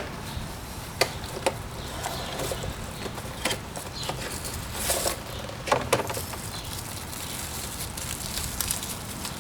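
Scattered light clicks and rustles of a new K&N air filter being handled and unwrapped, over a steady low background hum.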